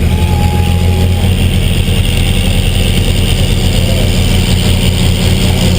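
Truck engine running loud and steady with a deep, pulsing drone, as at a truck pull.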